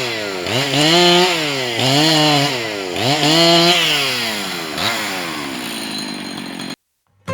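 Husqvarna 268 two-stroke chainsaw cutting into a large tree, its engine revving up and dropping back about once a second. Past the middle it settles to a lower, steadier run, then the sound cuts off abruptly near the end.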